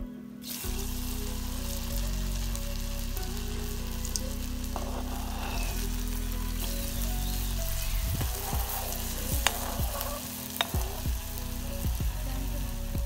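Food frying in hot oil in a pan, a steady sizzle. A few sharp clicks of a utensil against the pan come between about eight and eleven seconds in.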